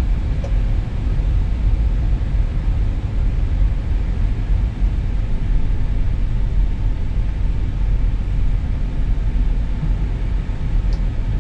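Steady low rumble inside an Airbus A320neo cockpit while engine number 2 is being started.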